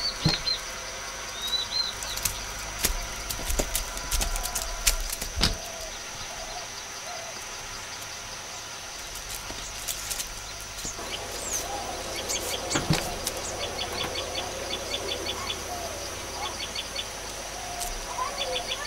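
Birds chirping, with short rising calls early on and quick runs of repeated chirps in the second half, over a steady high hiss. A few sharp clicks and knocks in the first half.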